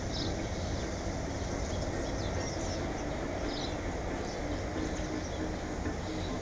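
Birds giving a few short, high chirps over a steady low rumble.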